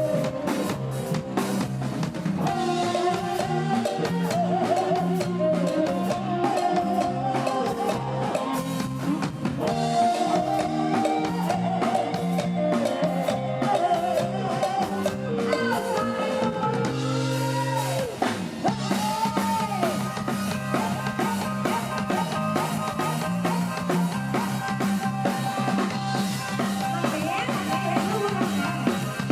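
Live Isan Thai pop band music, with a drum kit keeping the beat under a wavering lead melody. The beat breaks briefly a little past the middle, then picks up again.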